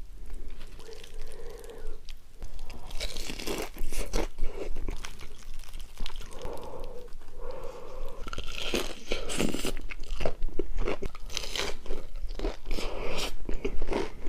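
Close-miked mukbang eating: crunchy food being bitten and chewed, with sharp, irregular crunches throughout.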